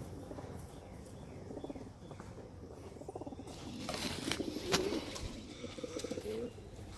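Domestic pigeons cooing, with wings flapping sharply a few times around four to five seconds in.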